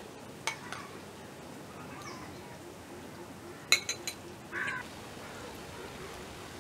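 A few sharp clicks over a low steady background, a quick cluster of them nearly four seconds in, followed by a short bird call.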